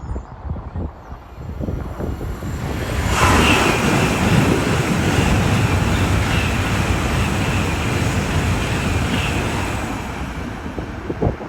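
A train passing at speed: a loud rushing noise sets in suddenly about three seconds in, with a faint high whine over it, and dies away gradually near the end. Wind buffets the microphone at first.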